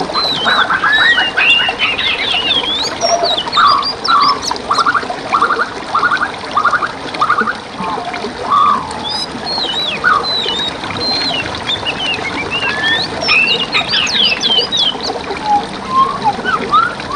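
Several songbirds singing and calling at once, with a quick run of repeated chirping phrases in the middle, over the steady rush of running water.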